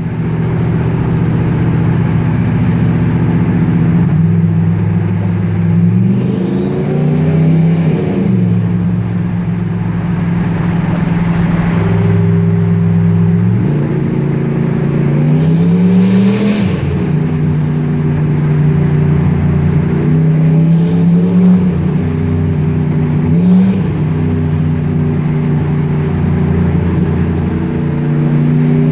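Turbocharged Ford three-valve 4.6 L V8 driving through a tunnel, its exhaust drone rising on four short pulls. Each pull has a high turbo whistle climbing over it, and the engine note drops suddenly when the pull ends.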